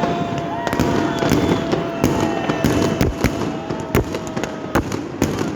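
Fireworks display: many sharp bangs and cracks in quick, irregular succession, with a long steady whistling tone and a few gliding whistles over them.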